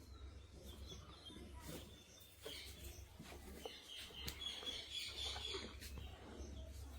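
Faint high-pitched bird chirping, busiest in the second half, over scattered soft clicks and a steady low hum.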